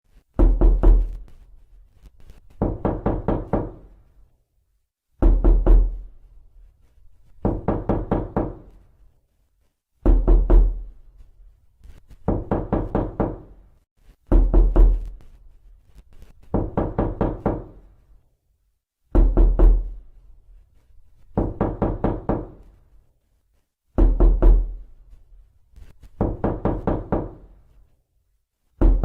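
Knocking on a door: quick bursts of about five to eight raps, one burst every two seconds or so, alternating a heavier, booming burst with a lighter one, repeating throughout.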